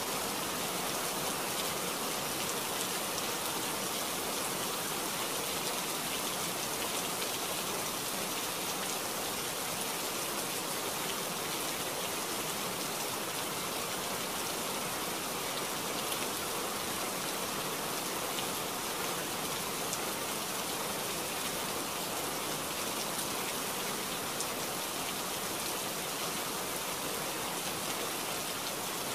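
Heavy rain falling, a steady, even hiss of drops.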